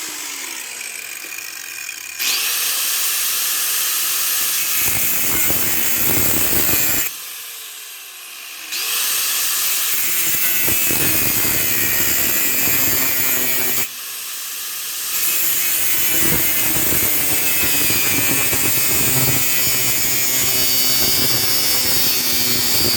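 Angle grinder with a cutoff wheel slicing a slit into galvanized steel pipe, a loud steady grinding rasp. The cut goes in three long passes, with the wheel easing off the metal briefly twice in between.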